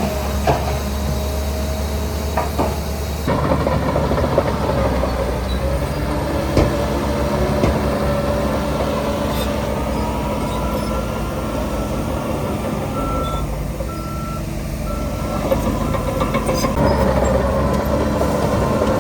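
Heavy diesel construction machinery working, its engine picking up load about three seconds in and rising again near the end. A reversing alarm sounds about four short beeps, roughly one a second, in the second half.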